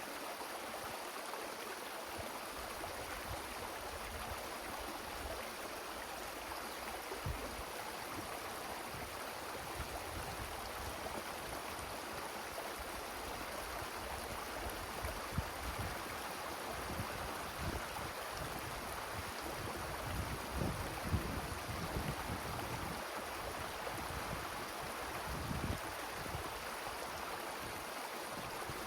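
Wind blowing through forest trees: a steady rushing hiss, with gusts buffeting the microphone in low rumbles, most in the second half.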